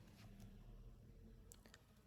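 Near silence with low room hum and a few faint computer clicks, three close together near the end.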